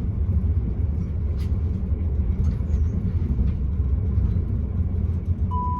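Steady low rumble of a train carriage's running noise heard from inside the passenger cabin, with faint clicks and rattles. Near the end, a chime tone begins, the onboard PA chime that comes before an announcement.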